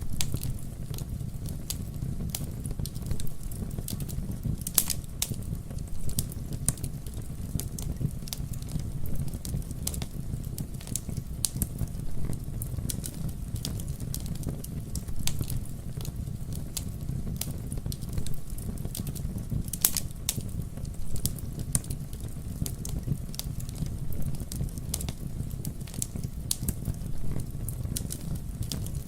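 Wood fire burning with a steady low rumble and frequent irregular crackles and sharp pops, a few louder snaps standing out.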